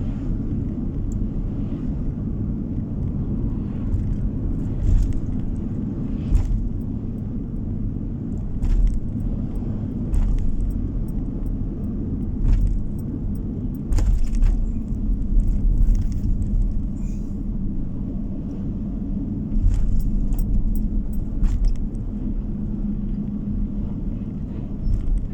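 Car driving on the road, heard from inside the cabin: a steady low rumble of tyres and engine, broken by frequent short knocks and rattles as it goes over bumps.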